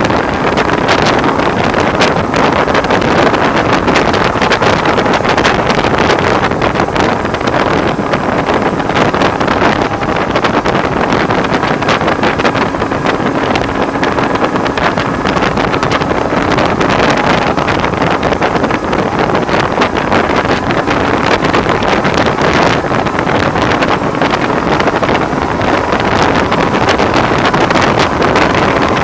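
Loud, steady wind noise on the microphone while riding a BMW R1100R at road speed, which the rider puts down to the windscreen, with the bike's boxer-twin engine and road noise running underneath.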